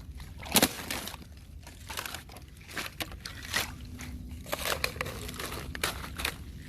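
Fresh thin ice crunching and cracking in a string of irregular sharp crunches, the loudest about half a second in.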